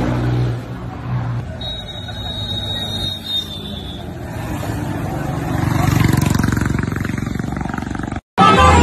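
A tractor engine running, growing louder about five seconds in, with a steady high-pitched tone heard for a couple of seconds early on.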